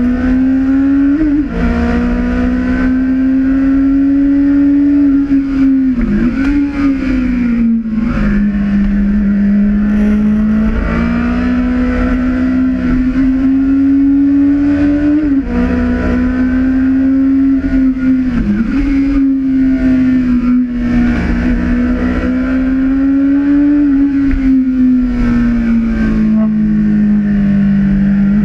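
Honda CB1000R's inline-four engine running under way while riding, its note climbing slowly and dropping back several times as the rider works the throttle and gears through the bends.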